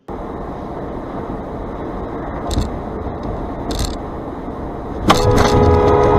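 Steady road and engine noise of a moving car, with two short knocks in the middle. About five seconds in, a car horn starts sounding, loud and held.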